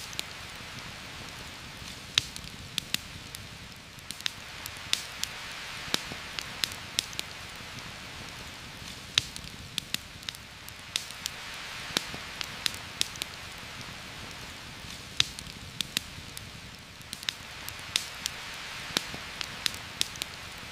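Steady heavy rain hissing through forest leaves, slowly swelling and easing every few seconds, with a campfire's sharp crackles and pops scattered irregularly throughout.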